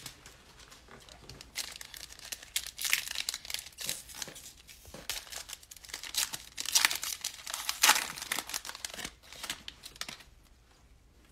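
Plastic wrapper of a trading card pack being torn open and crinkled, in a run of irregular crackles that are loudest near the middle and die away shortly before the end.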